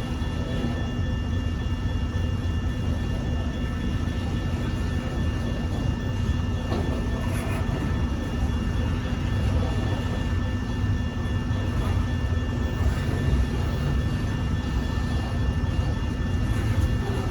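Steady low rumble of a diesel freight train, with several faint steady high tones over it.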